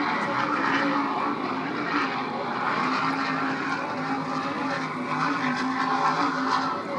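Offshore racing powerboat engines running at speed: a steady, even drone with no breaks.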